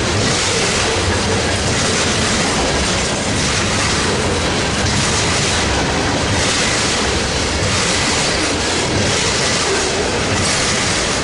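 BNSF manifest freight train passing close by: the steady rumble and clatter of its cars' wheels on the rails, with a faint steady wheel squeal.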